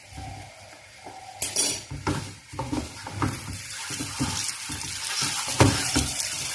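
Spoon stirring and scraping thick sweet potato toffee mixture around a pan over the heat, with sizzling from the freshly added butter. The strokes come about twice a second and the hiss builds after the first second or so.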